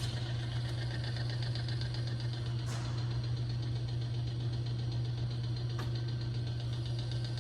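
Oil-additive test machine's electric motor switching on and running with a steady hum, its bearing turning against the race in the oil cup.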